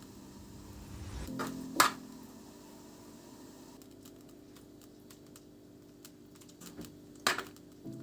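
Small handling sounds: a few sharp clicks and light taps, the loudest about two seconds in and again near the end, with faint ticks between.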